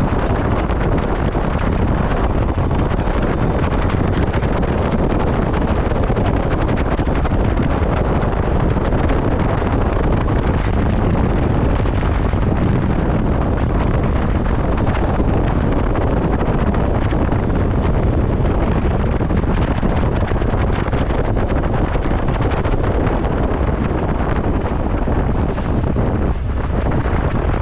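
Heavy wind noise buffeting the microphone on a moving motorcycle, a steady rumbling roar that masks any engine note, with a brief drop in level near the end.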